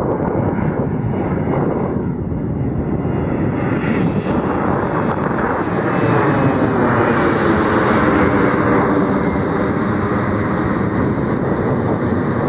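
Commercial airliner's engines on landing approach, passing low overhead, with a loud, steady engine noise that grows a little louder past the middle.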